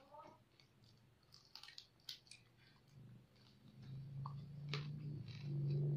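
Close-up crunching and chewing of crispy deep-fried pork knuckle skin: scattered short crackles and clicks. A low steady hum sets in about four seconds in and grows louder.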